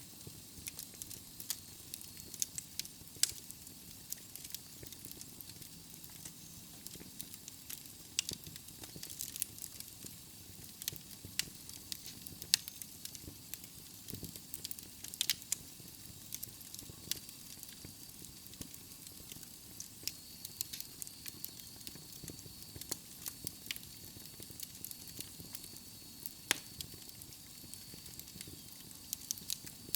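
Wood fire burning in a fireplace, crackling with frequent sharp pops and snaps over a soft, steady hiss of flames.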